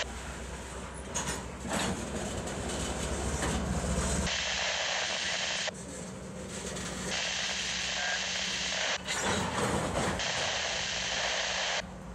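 Canadian Pacific freight train moving slowly past: covered hopper cars rolling on the rails, with the diesel locomotives' steady engine hum. The noise shifts abruptly several times.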